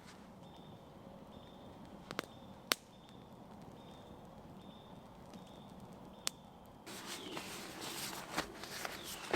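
Campfire wood popping in a few sharp isolated cracks over a quiet background with a faint insect trill. About seven seconds in, a steady rustling and crunching of leaves and ground litter starts.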